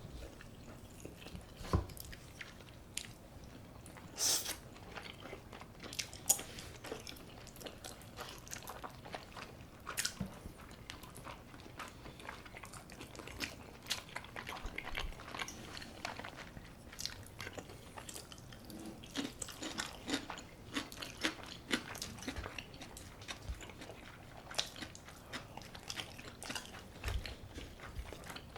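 Close-miked eating: irregular crisp bites, crunching and chewing, with sharp clicks scattered through and a few louder crunches in the first seconds.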